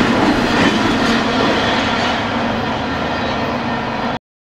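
BNSF intermodal freight train's container cars rolling past, with steady steel wheel-on-rail noise. The sound eases a little as the last cars go by, then stops suddenly near the end.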